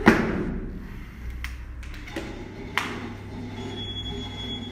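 A heavy thud, then a few lighter knocks and taps, from a loaded barbell and its weight plates on a gym floor.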